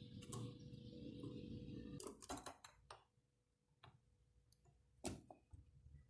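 Quiet cage sounds of a canary pair: a quick cluster of small sharp clicks and taps a little after two seconds, then single clicks near four and five seconds, the sort made by birds hopping on perches and cage wire. A low hum sits under the first two seconds.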